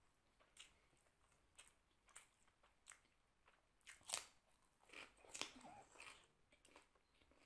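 Faint eating sounds: crisp bites into raw cucumber and chewing, heard as a series of short crunches, the loudest about four seconds in.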